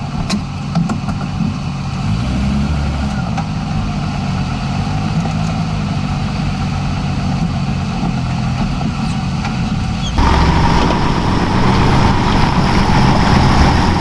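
Off-road truck's engine running while driving, its note rising and falling with the throttle. About ten seconds in the sound jumps abruptly louder and fuller.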